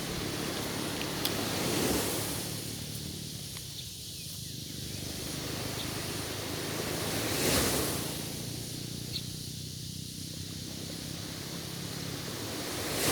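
Sea waves washing ashore, each swell rising and falling away, three of them about five to six seconds apart.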